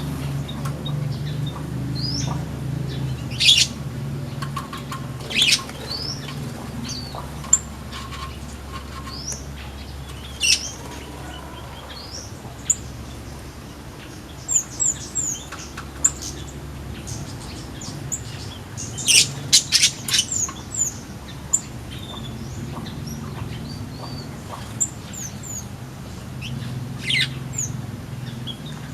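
Small flamboyan songbirds in an aviary giving scattered short, high chirps and down-slurred tweets, with several brief bursts of wing flutter, over a steady low hum.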